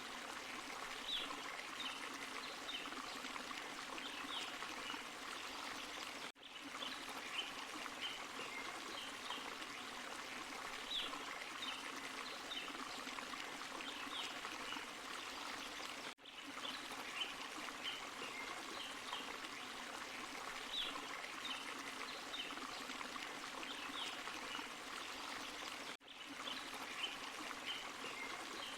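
Small forest waterfall and stream: a steady rush of falling and running water with light splashes and trickles over the top. The sound cuts out for a split second three times, about ten seconds apart, and the same stretch of water repeats between the gaps, the sign of a short looped recording.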